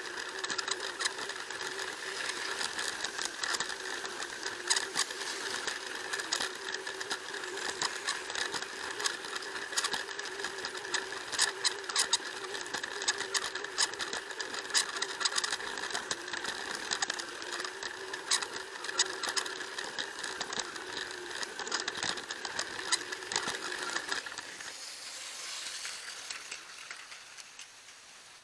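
Plarail toy train's small electric motor whirring steadily, with irregular clicks and rattles. The whine stops about 24 seconds in, leaving a hiss that fades out.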